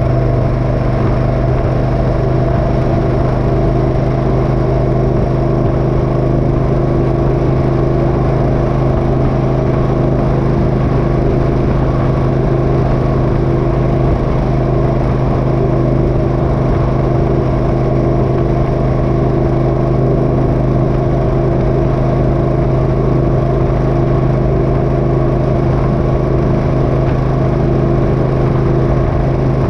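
Motorcycle engine running at a steady cruising speed while riding, its pitch holding level without revving up or down.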